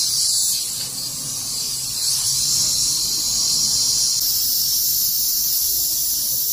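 Steady, high-pitched hiss of pressurized nitrogen escaping from the air conditioner's refrigerant lines.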